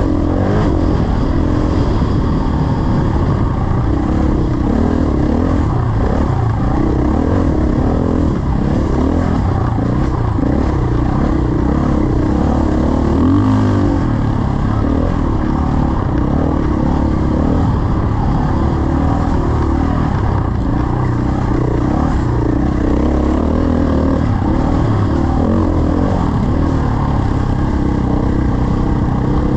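Dirt bike engine running under way, its pitch rising and falling with the throttle, with heavy low rumble throughout.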